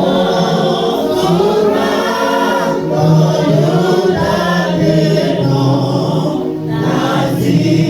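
Church choir singing a gospel hymn, several voices in harmony over steady low held notes.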